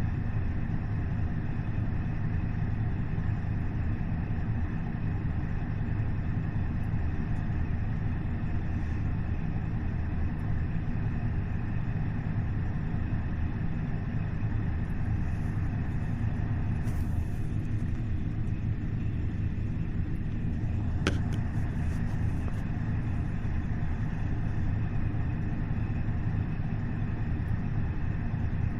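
KiHa 40 diesel railcar's DMF15HSA six-cylinder diesel engine running at a steady pitch as the train travels, with a couple of faint clicks in the second half.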